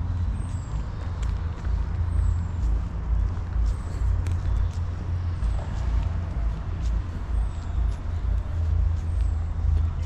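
A bird repeats a short, high, falling call about every two seconds over a steady low rumble that rises and falls in loudness.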